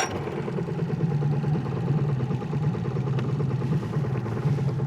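Boat motor running steadily at idle just after starting, with an even pulsing beat; it is fed by a newly fitted electric fuel pump that bypasses the mechanical pump suspected of causing its earlier trouble.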